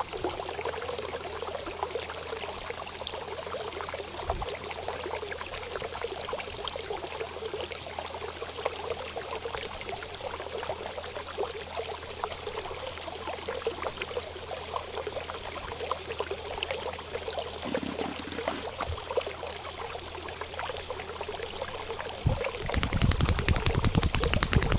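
Steady running, trickling water. It turns louder and fuller about two seconds before the end.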